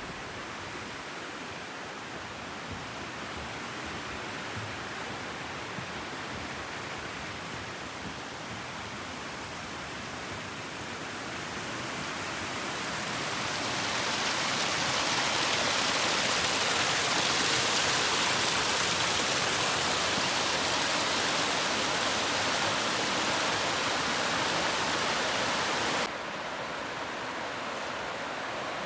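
Rushing river water, a steady hiss that swells louder past the middle, then drops suddenly to a quieter rush near the end.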